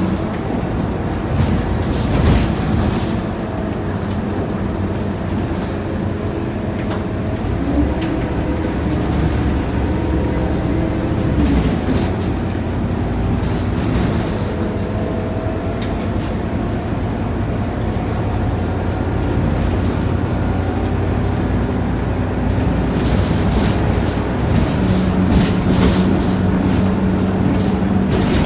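Scania K230UB city bus driving, heard from inside the cabin: a steady engine drone whose pitch rises and falls as the bus speeds up and slows, with scattered rattles and clicks from the body.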